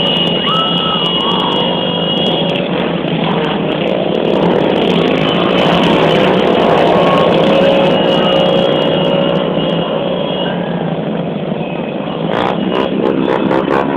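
Motorcycle engines running, their pitch rising and falling as they are revved, with a steady, loud mechanical noise throughout.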